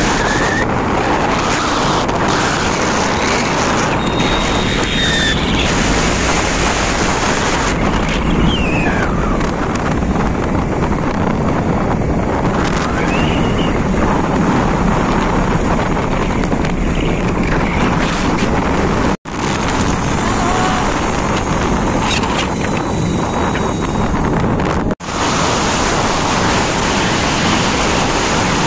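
Loud, steady wind rush over the microphone on a moving motorbike, mixed with road noise. It cuts out sharply twice, near the two-thirds mark and again about six seconds later.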